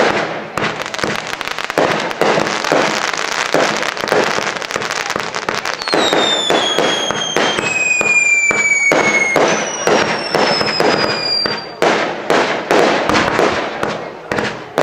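Firework display: rapid bangs and crackling bursts throughout. From about six seconds in, several whistling fireworks shriek at once, their whistles falling slowly in pitch until they stop a little before twelve seconds.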